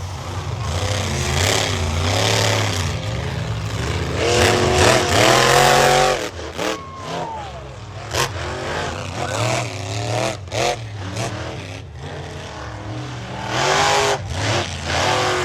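Monster truck engines revving hard in a race, their pitch repeatedly rising and falling over a heavy low rumble, loudest about a third of the way in. Later come a falling whine and a few sudden bangs.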